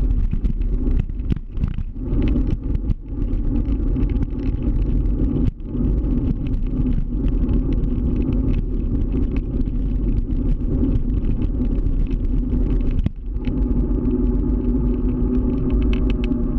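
Scooter on the move, with a steady low rumble of wind and road noise. A steadier hum comes in about thirteen seconds in.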